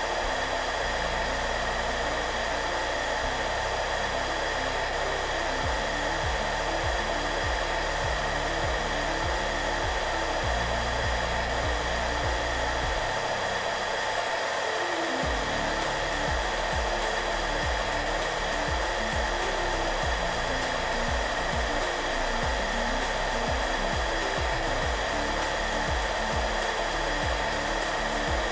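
Hair dryer blowing with a steady whooshing hiss and a constant motor hum, over soft background music whose low notes change every second or so.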